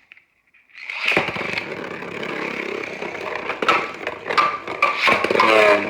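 Two Beyblade Burst spinning tops launched into a plastic stadium about a second in, then whirring as they spin, with repeated sharp clacks as they strike each other, coming faster near the end.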